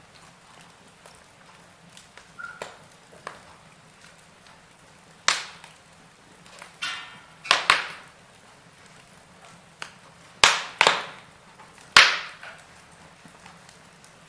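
Wood fire crackling in a fireplace: sharp pops and snaps at uneven intervals, the loudest in the second half, over a faint steady hiss.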